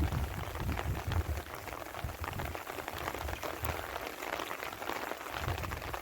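Steady rain falling, a dense patter of individual drops. Low rumbles come in the first two seconds and again near the end.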